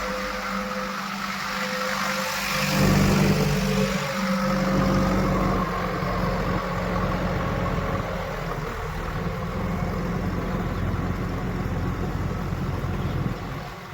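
Diesel engine running steadily, getting louder for a while about three seconds in.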